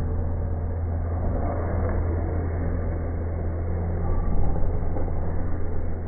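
A steady low motor hum, a little louder about four seconds in.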